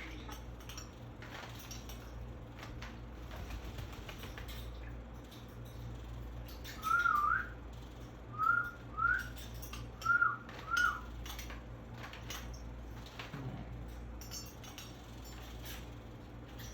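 African grey parrot whistling: a run of about five short, clear whistles, each a quick up-and-down flick in pitch, bunched together about halfway through, over a steady low hum and faint scattered clicks.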